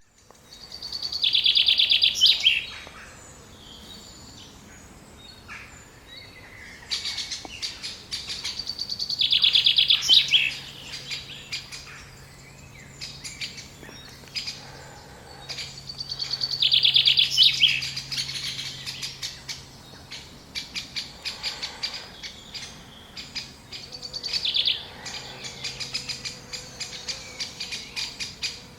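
Great spotted woodpecker nestlings calling from the nest. Bursts of rapid, high chattering notes come every several seconds, the begging of chicks close to fledging.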